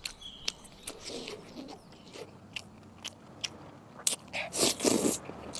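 Close-miked eating sounds: biting and chewing food, with scattered sharp clicks and a louder stretch of crunching near the end.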